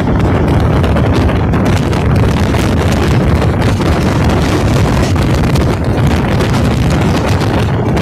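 Wind buffeting the microphone at the open door of a moving passenger train, over the steady low rumble and rattle of the train running along the track.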